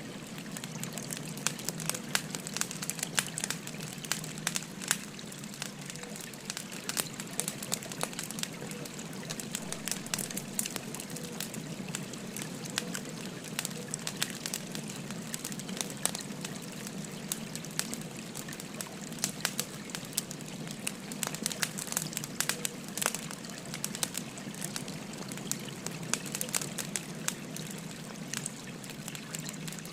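Wood fire crackling, with frequent irregular sharp pops and snaps, over a steady babbling stream.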